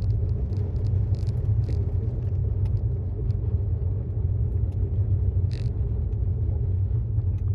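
Steady low road and tyre rumble heard inside the cabin of a moving 2018 Tesla Model S 75D, an electric car with no engine note, with a few light clicks or knocks scattered through it.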